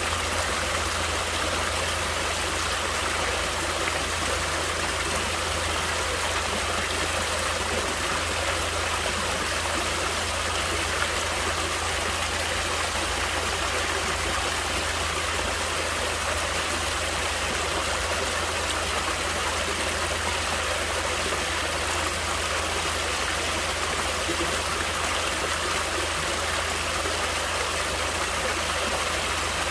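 Natural running water flowing steadily, an even rush with no breaks or changes.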